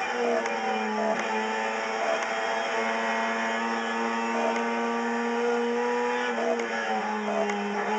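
Mazda RX-7 race car's rotary engine heard from inside the cabin, held at a steady high-pitched buzz under power. About six and a half seconds in the pitch dips briefly, then climbs again.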